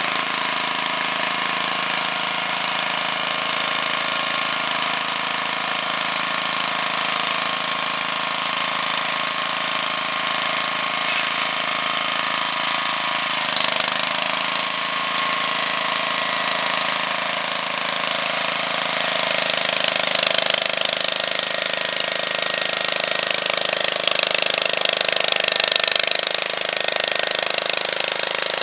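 Engine of a two-wheel walking tractor running steadily, driving a rotary power harrow with a mounted seeder. It swells slightly about halfway through and again in the later part.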